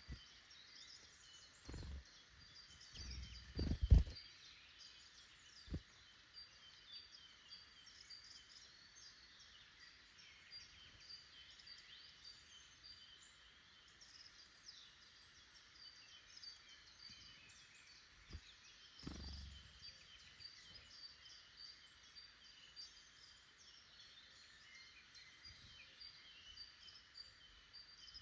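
Woodland bird chorus: many small wild birds chirping and singing continuously. A few short low thumps break in, the loudest about four seconds in.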